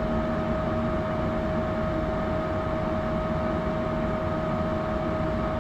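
Propane furnace running with its burners lit: a steady rush of flame and moving air, with a constant whine over it.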